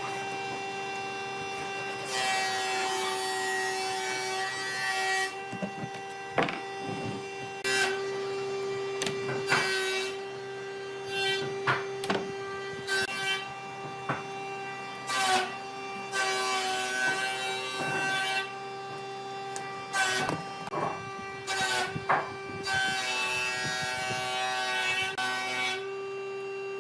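A power tool's motor runs with a steady pitched hum. Three times it breaks into a few seconds of louder, rough, hissing noise, and short clicks and knocks come in between.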